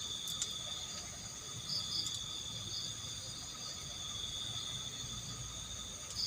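Night insects, crickets among them, calling steadily in several high tones at once, one of them pulsing on and off.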